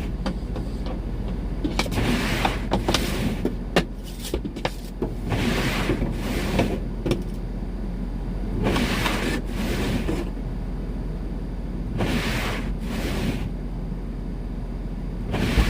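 Repeated strokes of a hand snow scraper across a snow-covered car windshield: rough scraping swipes of about half a second to a second each, at irregular spacing, over a steady low hum.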